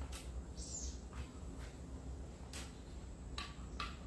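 Birds chirping: a series of short, high calls, one sweeping down in pitch, over a steady low rumble.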